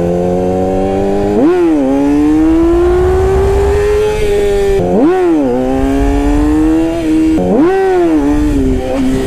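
Yamaha R6's inline-four engine in first gear, revved sharply three times, each blip rising fast and dropping back before the engine pulls on with a slowly climbing pitch, as in clutch-up wheelie attempts.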